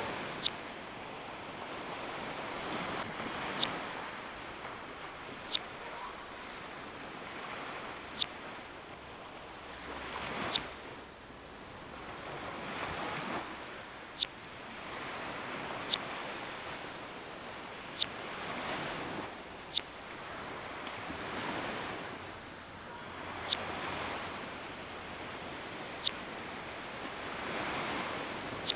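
Ocean waves washing in and out in slow swells, with a short, sharp high click every two to three seconds.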